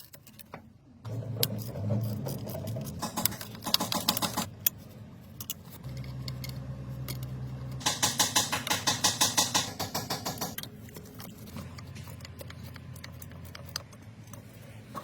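Metallic clicking and clatter, with a fast, even run of clicks lasting about two and a half seconds near the middle, over a low hum.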